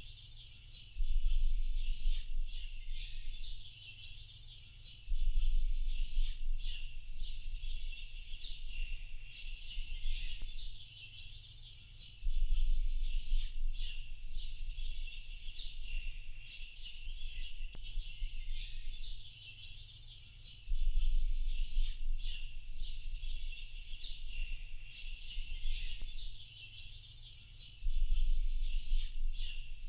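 A dense chorus of small songbirds chirping and twittering without a break. About every five to eight seconds a deep low rumble starts abruptly and fades over a few seconds; it is the loudest sound.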